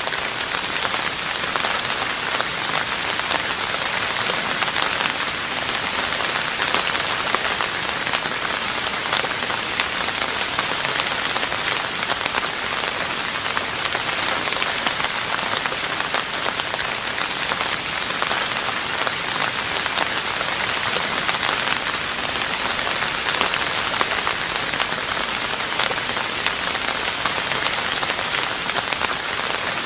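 Steady rain falling on a roof, a dense even patter of drops.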